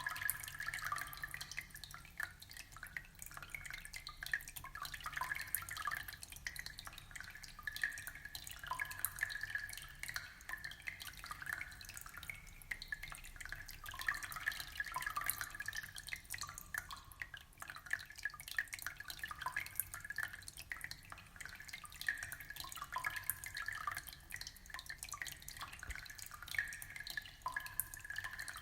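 Aquarium water trickling and bubbling: a steady, dense stream of small drips and splashes.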